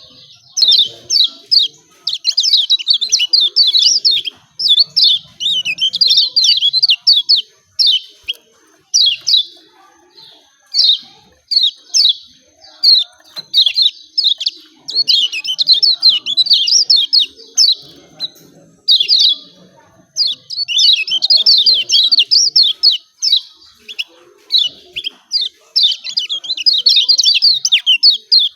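Lemon-bellied white-eye (kecial kuning) giving its 'ciak ciak' call, the competition-style song: rapid runs of high chirps in bursts of one to two seconds with short pauses between.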